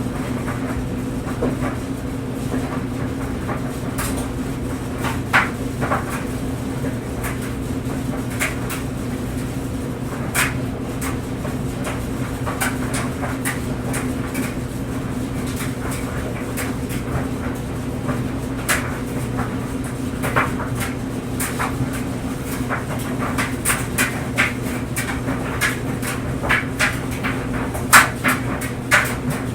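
Clothes dryer running with a steady motor and drum hum, clothes tumbling in the drum with irregular soft knocks and clicks, which come more often near the end.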